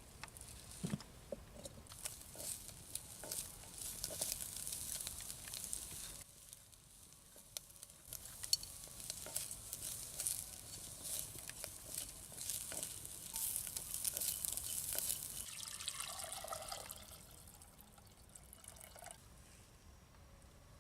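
Food cooking over a fire, sizzling and bubbling with many small crackles and pops; it eases off briefly partway through and fades near the end.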